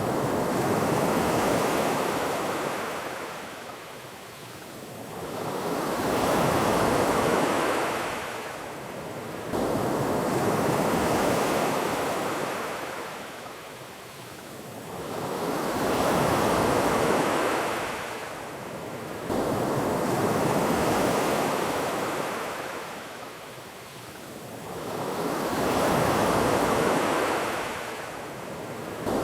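Ocean waves breaking and washing up a beach, the surf swelling and ebbing in slow surges about every five seconds.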